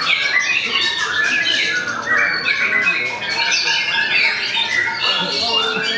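White-rumped shama (murai batu) singing a dense, unbroken stream of rapid, varied phrases.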